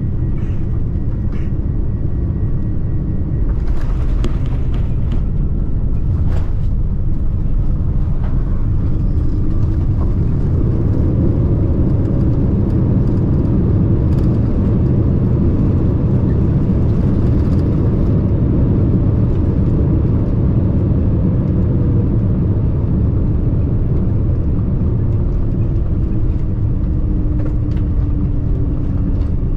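Boeing 787-9 cabin noise: a steady, loud low rumble of engines and airflow heard from inside the cabin, with a faint tone that rises in pitch midway and slowly falls again, and a few light clicks early on.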